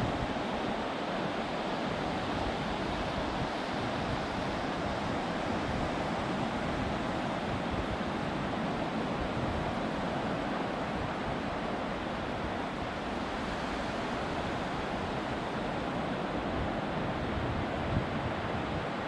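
Ocean waves washing onto the beach in a steady rush of surf, with wind buffeting the microphone. A brief knock near the end.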